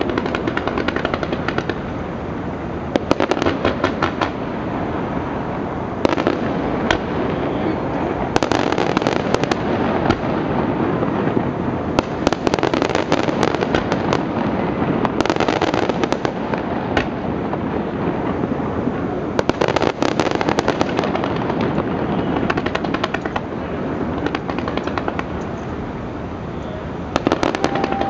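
Fireworks display going off: a continuous wash of bangs and crackle, with rapid runs of sharp crackling reports every few seconds.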